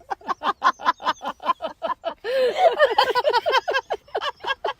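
An animal giving a fast run of short, repeated calls, about five a second, louder and rougher a little past the middle.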